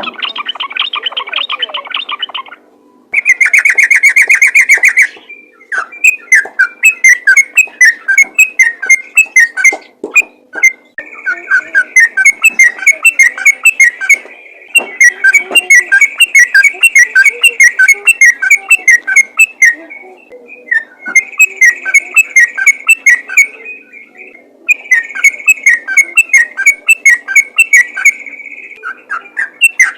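Olive-winged bulbul (trucukan) singing in fast chattering runs of short whistled notes. The runs come in bouts of several seconds with short pauses between them, and there is a louder, denser phrase a few seconds in.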